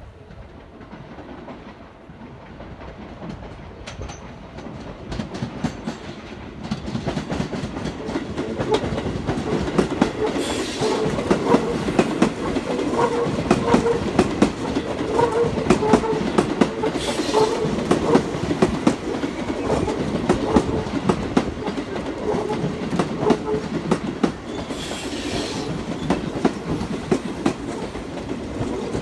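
Seibu 20000 series electric train running into the station and passing close by, its wheels clattering over the points and rail joints in quick, irregular clicks. The sound builds over the first several seconds as it approaches, then stays loud as the cars go by.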